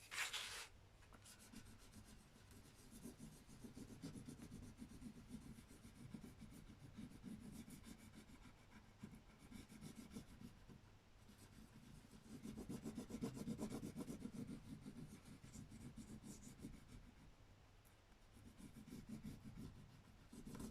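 Bone folder rubbing a rub-on transfer onto a plastic sheet: faint, quick back-and-forth scraping strokes in several stretches, with a short knock at the very start.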